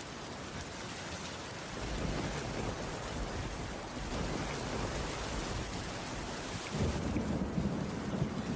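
Steady rain falling, with low rolling thunder rumbling in about two seconds in and swelling again near the end.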